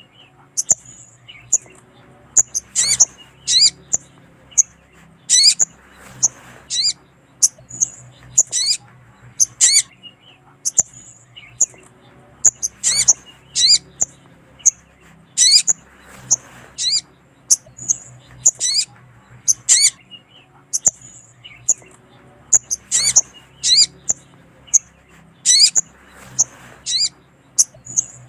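Brown-throated sunbird (sogon) giving sharp, high, sweeping call notes in quick clusters about every two to three seconds: the female's call, used as a lure to draw in males.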